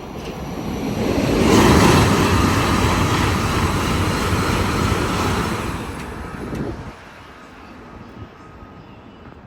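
Train passing at speed: a rushing noise that builds quickly, holds for several seconds, then drops away abruptly.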